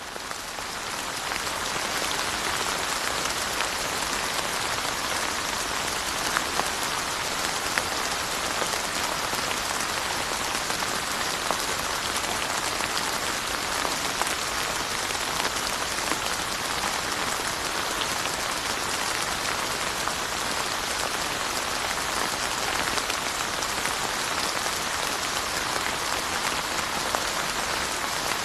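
Steady rain falling on surfaces, an even hiss with scattered drop ticks, fading in at the start.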